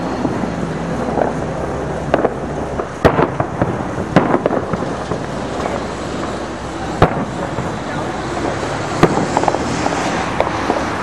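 Aerial fireworks shells bursting with sharp bangs at uneven gaps of one to two seconds, the loudest about three seconds in, over a steady background din.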